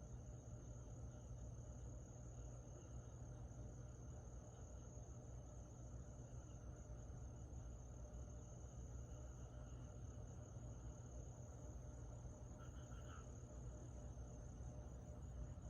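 Summer-night crickets calling: a faint, steady, high continuous trill with weaker calls from other insects, and one short separate chirp near the end. A low hum runs underneath.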